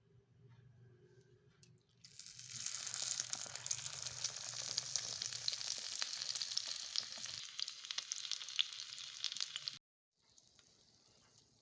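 Food sizzling and crackling as it fries in a tiny miniature cooking pan, starting about two seconds in and cutting off abruptly near the end, followed by a fainter hiss.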